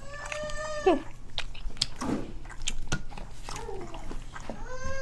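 A baby fussing in short, whiny cries: one about a second long at the start that drops in pitch, a shorter one past the middle, and another near the end. Sharp clicks of eating and utensils fall in between.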